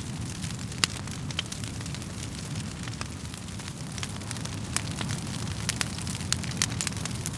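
Wood fire burning with a steady low rumble, with irregular sharp crackles and pops of the burning logs, more of them in the second half.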